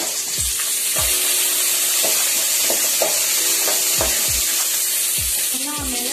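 Shallots and garlic frying in hot groundnut oil in an aluminium kadai, with a steady sizzle. Partway through they are stirred with a spoon.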